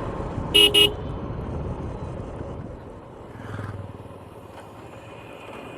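Motorcycle riding noise picked up by a helmet-mounted clip-on mic: wind and road rush with the engine underneath, easing off after about three seconds. A horn beeps twice, quickly, under a second in.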